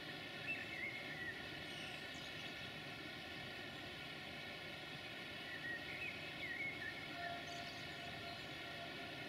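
Birds chirping in two short spells, about half a second in and about six seconds in, over a steady hum made of many even tones.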